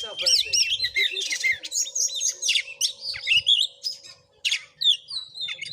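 Oriental magpie-robin (kacer) singing a rapid, varied run of whistles and chirps that sweep up and down in pitch, with a brief pause about four seconds in.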